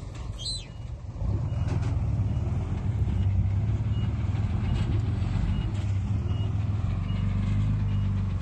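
Heavy earthmoving machine's engine running under load, growing louder about a second in and then holding steady. A faint reversing alarm beeps about once every 0.7 s behind it.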